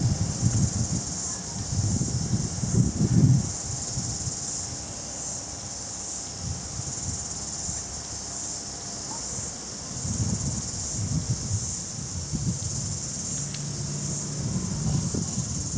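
Overheated, smoking washing-machine motor giving a faint steady hum that cuts off about nine seconds in, as its thermal fuse trips. Insects chirp steadily throughout, with bouts of low rumble at the start and near the end.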